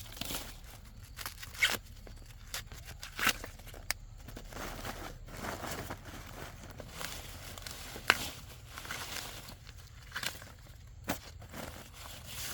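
Irregular rustling, crinkling and tearing of handled material, with scattered sharp snaps.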